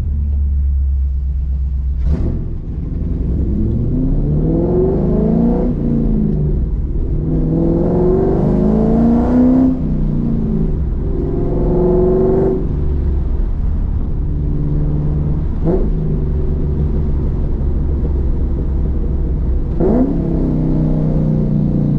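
Roush Mustang's engine heard from inside the cabin, accelerating through the gears: three pulls rising in pitch with short breaks between them at the shifts, then running steadily at cruise.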